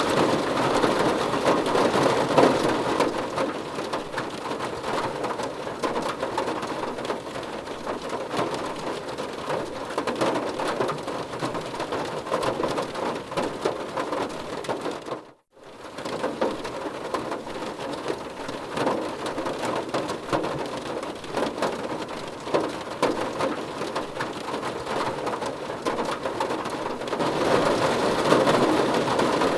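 Steady heavy rain falling and pattering on a surface. About halfway through, the sound drops out to near silence for a split second, then resumes.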